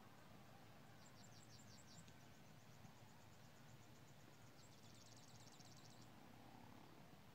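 Faint songbird trill: a quick run of high notes about a second in that trails off, then a faster, denser trill around five seconds in, over a quiet low outdoor rumble.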